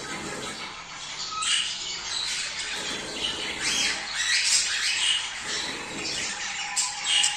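Several budgerigars chattering and warbling together: quick, overlapping high chirps and squawks without pause.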